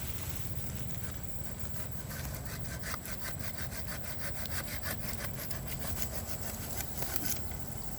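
A hand saw cutting through a bamboo stem in quick, even back-and-forth strokes, the strokes clearest from about two seconds in until near the end.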